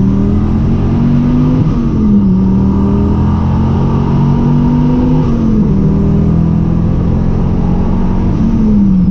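Twin-turbo Dodge Viper's V10 engine heard from inside the cabin at cruising speed. The engine note climbs slowly in pitch and falls back sharply three times, about one and a half, five and eight and a half seconds in.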